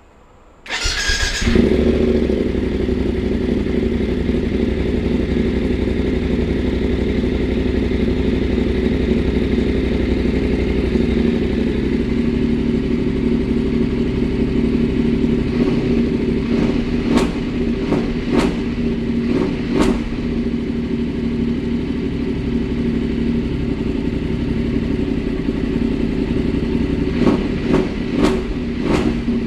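Voge 900 DSX motorcycle's parallel-twin engine starting up and settling into a steady idle through an open muffler with the catalytic converter removed. A few short sharp cracks come over the idle around the middle and again near the end.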